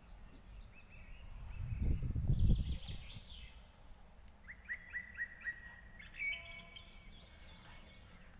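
Small birds chirping in the background: a quick run of short rising chirps about halfway through, then longer calls near the end. A low rumble about two seconds in is the loudest sound.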